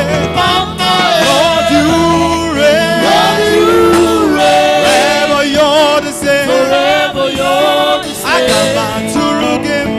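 Live gospel music: voices singing a melody with vibrato over a steady instrumental backing.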